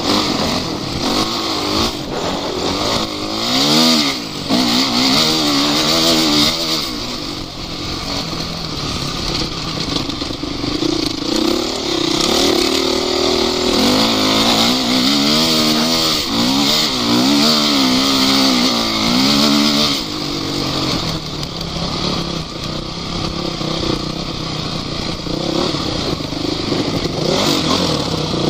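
Off-road vehicle engine revving up and down over and over under changing throttle, with a rushing noise underneath as it drives over rough terrain.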